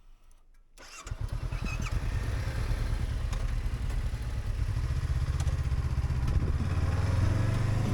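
Motorcycle engine starting about a second in, then running steadily with a fast, even low firing beat.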